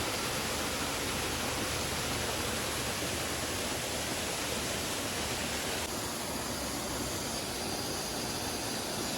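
Steady rushing of flowing river water, an even hiss that dips slightly about six seconds in.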